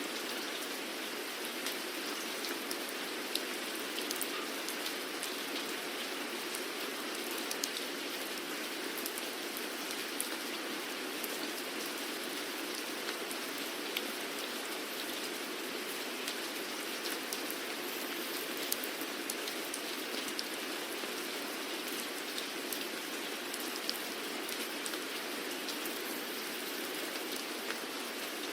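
Steady rainfall, an even hiss of rain with individual drops ticking on a hard surface scattered throughout.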